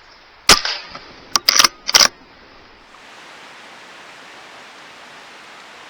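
A single air rifle shot, a sharp crack, followed by the light click and metallic clatter of the bolt being cycled to chamber the next pellet. After about three seconds a steady hiss.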